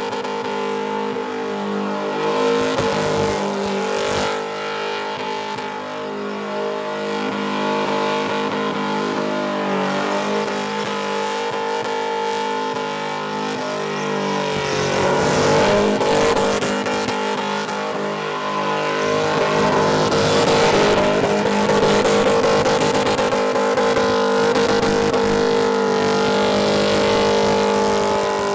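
Supercharged V8 burnout car held at high revs with its rear tyres spinning and smoking, a continuous loud engine note with tyre noise. The revs dip and climb again a few times.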